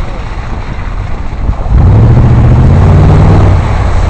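Truck engine running, then revving up and pulling harder from about halfway through, with a louder, steady drone after that.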